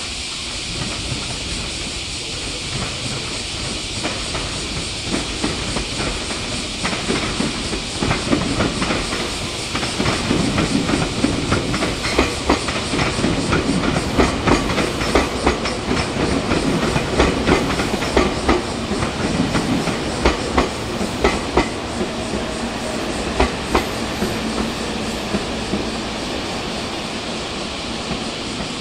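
Meitetsu electric train passing, its wheels clacking rhythmically over rail joints; the clatter builds from about seven seconds in, is loudest in the middle and dies away near the end.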